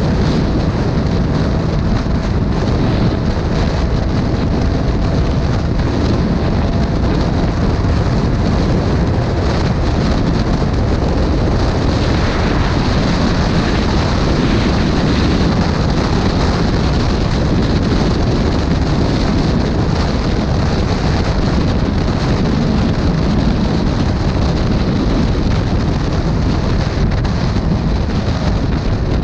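Heavy wind rushing over the camera microphone on a moving motorcycle, a steady low rumble with the bike's engine running underneath it.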